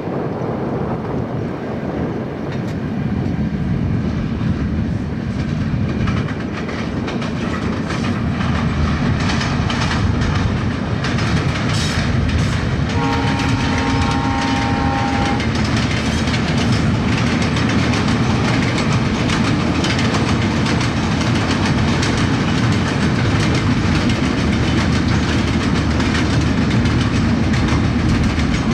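Diesel-hauled passenger express train running past, a steady rumble and clatter of wheels on rails that grows a little louder. About halfway through, the locomotive sounds its chord horn once for about two and a half seconds.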